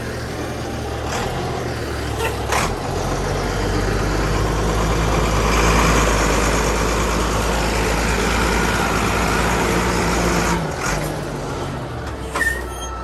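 A vehicle engine running steadily, getting louder up to about six seconds in and easing off about ten and a half seconds in.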